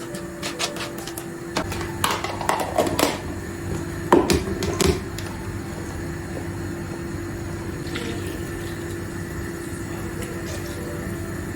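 Kitchen handling sounds: a run of clicks and clatters of dishes or utensils in the first five seconds, loudest around four to five seconds in, over a steady appliance hum that grows fuller about one and a half seconds in.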